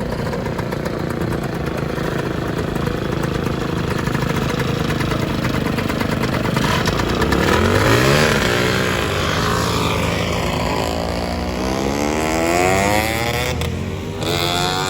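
Two-stroke Lambretta scooter engines running, with scooters pulling away and revving up as they ride past. Halfway through, one engine's pitch sweeps up and falls away, and more rising revs follow to the end.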